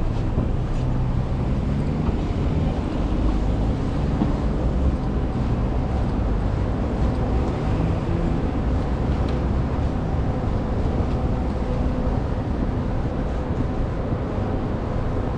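Steady city street traffic rumble from vehicle engines running and passing. One engine's pitch rises during the first few seconds.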